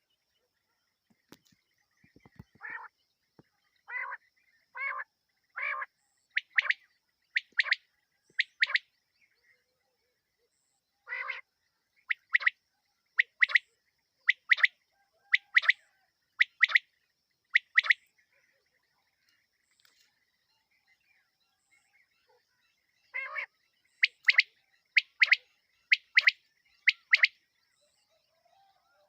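Female quail (batair) giving its night call, the call used to lure quail when hunting. It comes in three runs of short, sharp call notes, each run opening with a few lower, rougher notes and going on in higher notes about one a second, with a pause of several seconds between runs.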